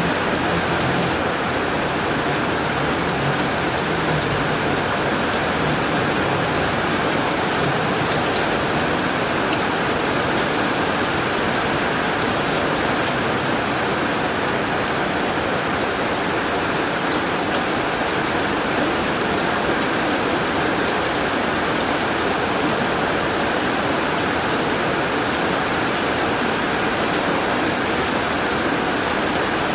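Heavy rain drumming steadily on a tin roof, a dense hiss with fine patter of drops. A low rumble sits under it for the first several seconds and fades away.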